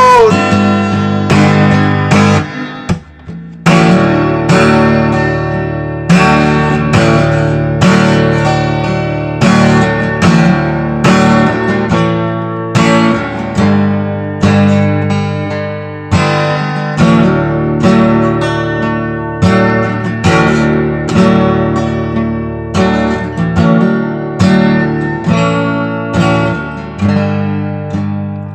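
Instrumental break in a song: a guitar strums chords in a steady rhythm, with a brief pause about three seconds in.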